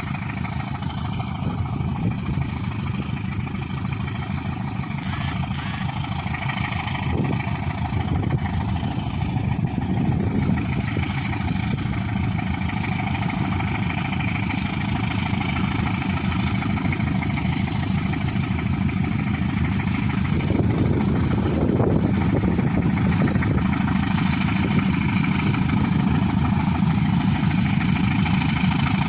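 Ore freight train running, the diesel engines of its pair of GE U13B locomotives running steadily, a little louder about two-thirds of the way through.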